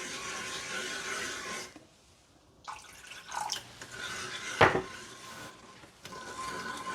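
A spoon stirring sugary water with garlic and onion in a pot, with the liquid sloshing, then a few sharp knocks of the spoon against the pot, the loudest about four and a half seconds in.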